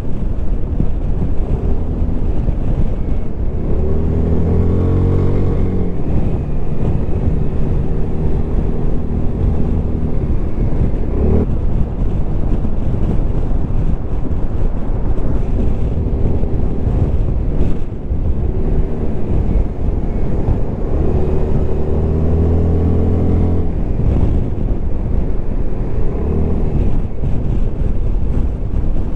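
Suzuki Burgman 400 scooter's single-cylinder engine and exhaust running at expressway speed, under heavy wind noise on the microphone. The engine note rises under acceleration twice: about four seconds in and again about twenty-one seconds in.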